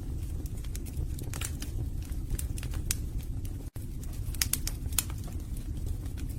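Wood fire burning in a fireplace: irregular sharp crackles and pops from the logs over a steady low rumble of the flames, broken by a split-second gap about two-thirds of the way through.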